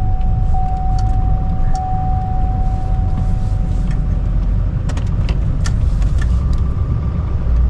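Chevy Duramax 6.6-litre V8 turbo-diesel pickup running under load while plowing snow, a steady low rumble. A steady high whine sounds over it for the first three seconds or so, and a few sharp clicks and knocks come about five seconds in.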